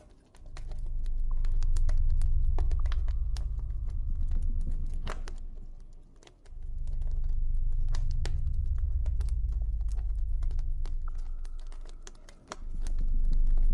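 Campfire crackling, with irregular sharp pops and snaps of burning wood, over a low droning ambient tone that swells and fades, dipping away briefly about six seconds in and again near the end.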